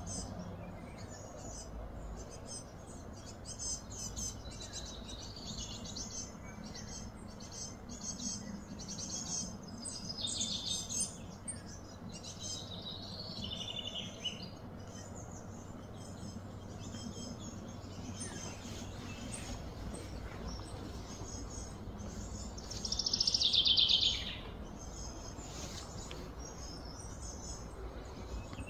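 Birds chirping and calling on and off, with one louder, longer trilled call a little past two-thirds of the way through, over a low steady background hum.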